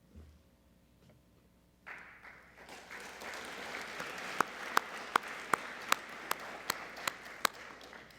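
Audience applauding, starting suddenly about two seconds in. Through the second half, one clapper close by stands out with loud, evenly spaced claps, about two and a half a second.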